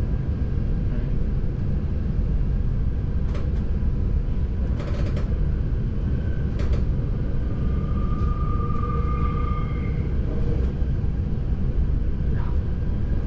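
Passenger train running on rails: a steady low rumble with a few sharp clicks, and a thin steady squeal lasting about two seconds past the middle.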